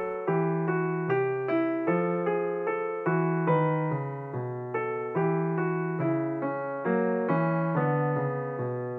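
Background music: a piano playing a steady, unhurried melody, with a new note or chord struck about every second.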